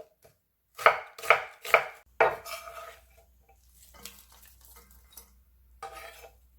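Kitchen knife chopping half an onion on a cutting board: four sharp strokes about a second in, then fainter clatter and rustling.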